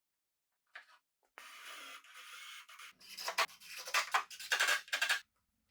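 Scraping and rubbing in a woodworking shop: one steady scrape of about a second and a half, then a quick run of six or seven short, louder strokes.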